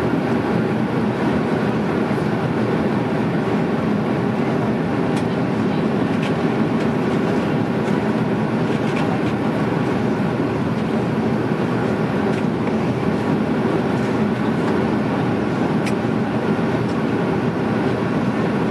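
Steady roar of engine and airflow noise inside the cabin of an Airbus A310 in flight, unchanging throughout, with a few faint ticks.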